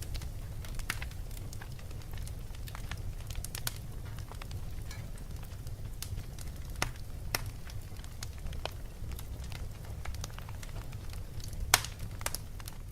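Wood fire in a fireplace crackling: irregular sharp pops and snaps over a steady low rumble, with one louder pop near the end.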